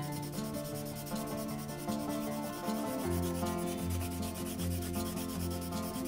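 Black watercolor pencil scratching on fine-grain watercolor paper in many quick back-and-forth shading strokes, a dry rubbing sound, over soft background music with held notes.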